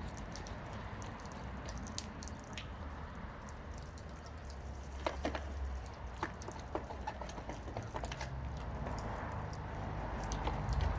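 Wet hand-scrubbing on a house gutter: squishing and dripping, with scattered small clicks over a low steady rumble.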